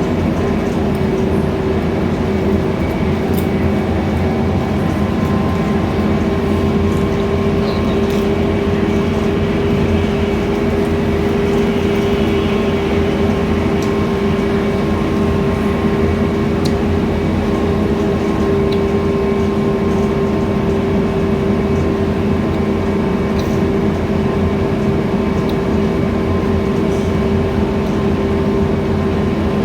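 Scania K320iA CNG city bus running steadily, heard from inside the bus: a constant engine and drivetrain hum with a few faint rattles.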